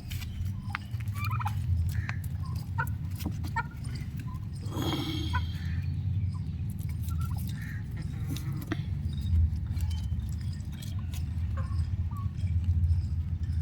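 Young domestic turkeys calling: scattered short peeps and clucks, with one longer, louder call about five seconds in. A steady low rumble runs underneath.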